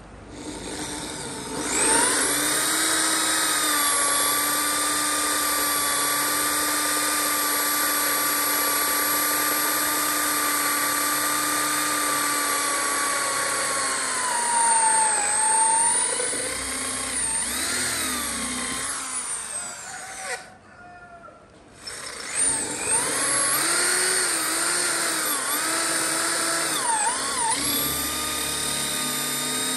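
An electric power tool's motor starting up and running with a steady high whine. Its pitch dips several times, and about two-thirds through it stops briefly, then starts again.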